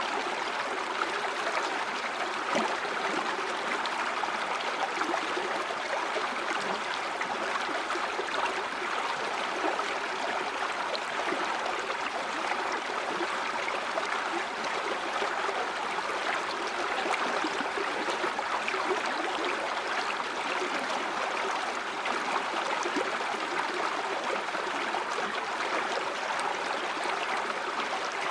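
A river or stream of running water flowing and gurgling over rocks.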